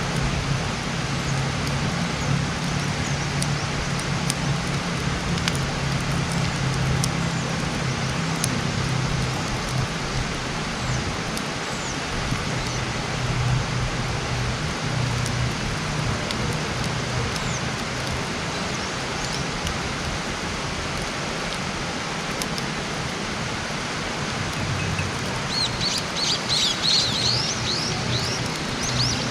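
Wood campfire burning with a steady crackle and occasional sharp pops, over a low hum. Near the end a small bird gives a quick run of chirps.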